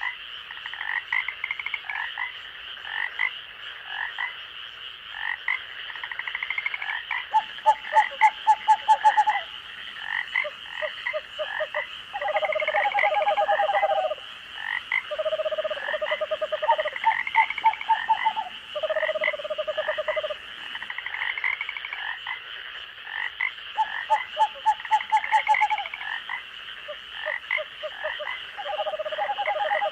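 Night chorus of frogs in a forest, with many short repeated calls and bouts of rapid pulsed croaking lasting about two seconds each, over a steady high-pitched drone. Two brief high, fast-pulsed trills break in, one at about eight seconds and one near twenty-five seconds.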